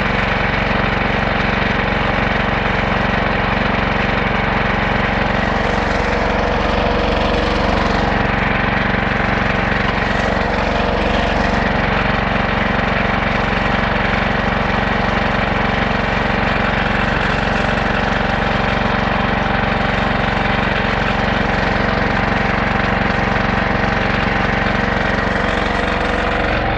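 The sawmill's 14 hp 420cc single-cylinder gas engine running steadily at a constant speed, driving the band-saw blade. The sound cuts off suddenly at the very end.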